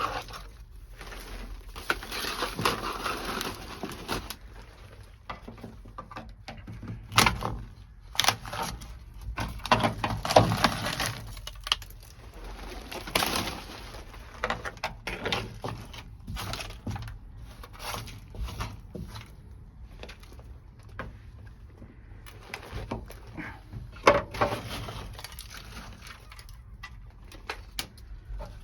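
Irregular knocks, cracks and scraping as brittle, dry-ice-frozen sound-deadening mat is broken and chipped off a car's floor pan.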